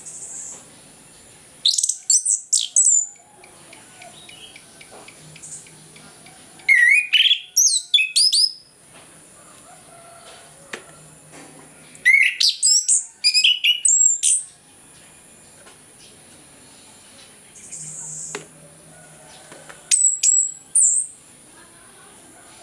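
Orange-headed thrush singing full, loud song phrases of rapid rising and falling whistled notes, in four bursts a few seconds apart with pauses between. A faint steady high hiss lies underneath.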